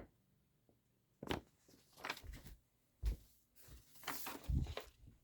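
A few soft, scattered knocks and rustles of toy trains being handled by hand.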